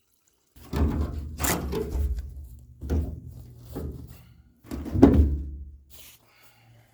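A steel fuel tank being handled and knocked while it is emptied of old sediment: about six separate thunks and knocks over five seconds, with a low hum underneath.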